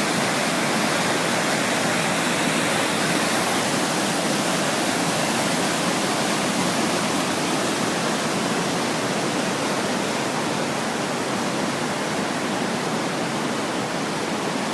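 Rushing river water: a loud, steady rush of white water with no change throughout.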